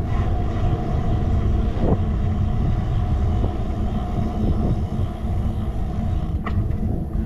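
Wind buffeting a handlebar-mounted action camera's microphone on a moving bicycle, a steady low rumble with road vibration and a few short rattles or clicks, one sharper click near the end.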